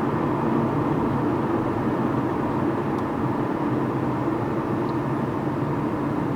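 A vehicle's engine running with a steady, even hum.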